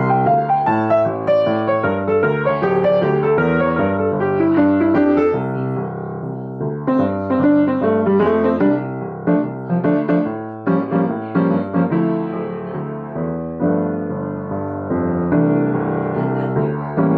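Piano music: a continuous run of notes and chords, with no break.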